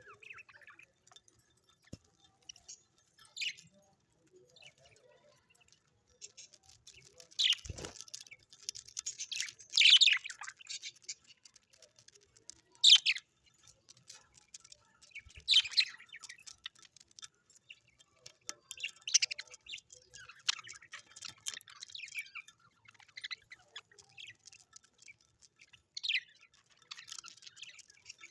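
Small birds chirping and calling: loud, sharp high calls every few seconds over a busy twittering, with one low knock about eight seconds in.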